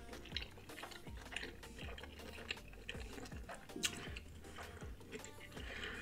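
Soft, close-up chewing of cooked lobster tail: faint irregular wet mouth clicks and smacks.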